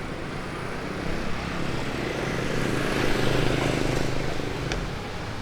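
A vehicle passing on the street: a low engine hum with road noise that swells to a peak about three seconds in, then fades.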